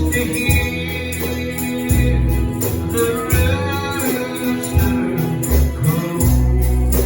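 Live gospel music, a song with a singer over a walking bass line and a tambourine keeping a steady beat.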